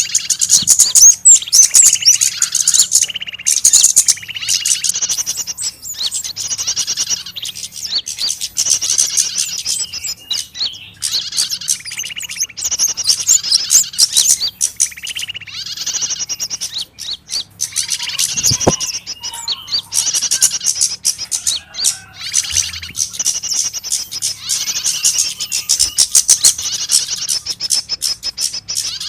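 Small songbirds chirping and calling frantically in a dense, unbroken chatter of rapid high chirps and trills. It is a bird-trapping lure recording of a pinched, trapped bird's distress calls that draws in agitated small birds.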